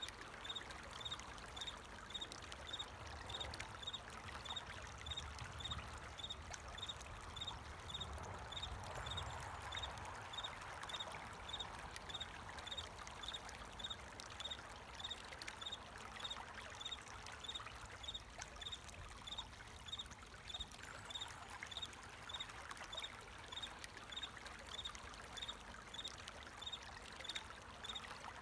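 Flowing water trickling and pouring steadily, with a cricket chirping in short, evenly spaced high chirps.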